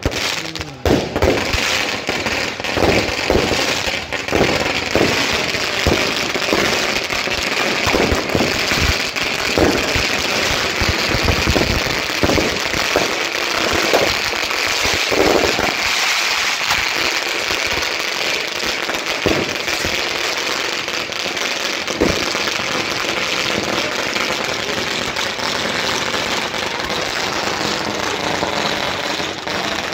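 Aerial fireworks going off: many bangs in quick succession through the first half, thinning out to occasional ones after about 16 seconds, over a continuous dense crackling hiss.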